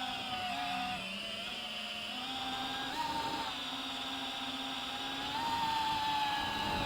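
DJI FPV drone's electric motors and propellers whining steadily, the pitch shifting up and down a little as the throttle changes.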